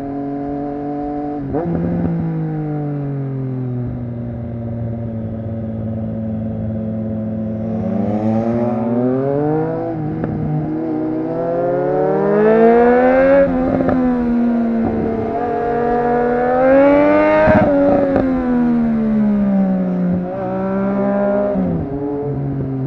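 Triumph Street Triple RS inline-three engine with a Yoshimura exhaust, pulling hard and rising in pitch several times, with sudden drops in pitch at each gear change or throttle lift. The pitch climbs steadily from about a third of the way in and peaks twice in the second half.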